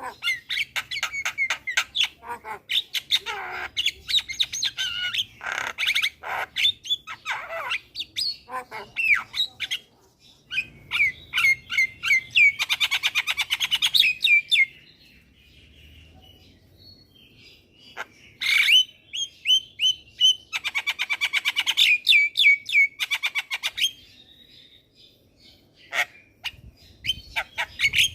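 Javan myna singing: a fast, varied run of harsh squawks, whistles and rapid rattling chatter, broken by a couple of short pauses.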